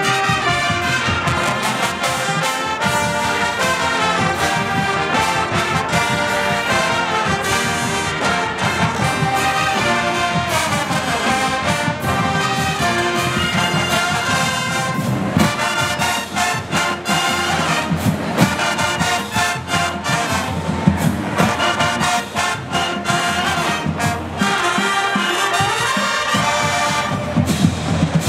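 Music played by a brass band, with trumpets and trombones carrying the melody.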